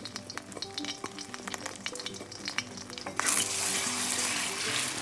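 A utensil clicks quickly against a bowl as the salted and peppered eggs are stirred and beaten. About three seconds in, a loud steady sizzle of hot oil in a pan starts.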